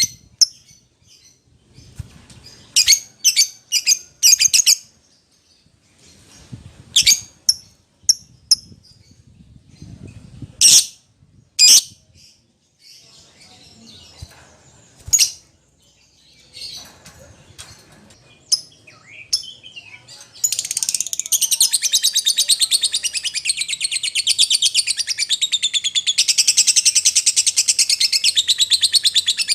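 Lovebird calling: sharp, high shrieks in short groups, then about two-thirds of the way in a long, unbroken rapid high chatter.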